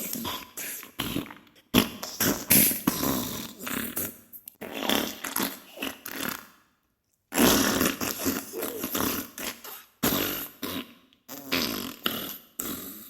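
Diarrhea sound effect: a series of wet, sputtering farts with splattering, coming in bursts of one to three seconds separated by short breaks, one of them a near-silent pause about seven seconds in.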